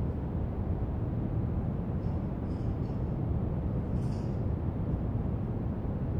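Steady brown noise, deep and even, with a few faint marker strokes scratching across paper, about two seconds in and again around four seconds.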